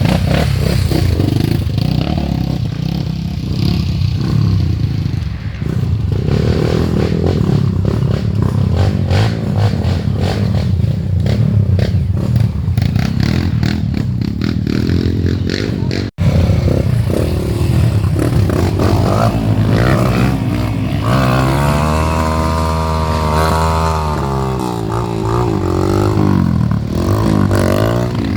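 Off-road motorcycle engines running and revving hard, with clattering knocks throughout the first half. In the second half one engine's pitch rises and falls several times as it is revved.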